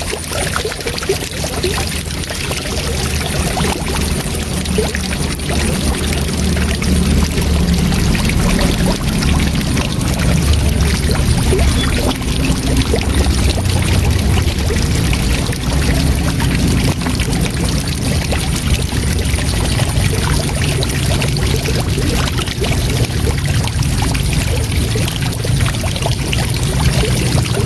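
Waterfall: a steady, continuous rush of falling water, heaviest in the low end.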